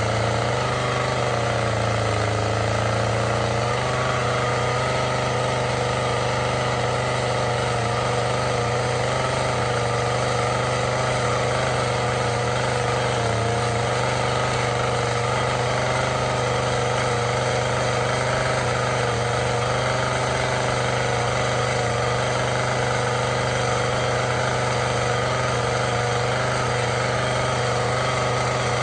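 Chainsaw engine running at a steady speed while carving eagle feathers into wood.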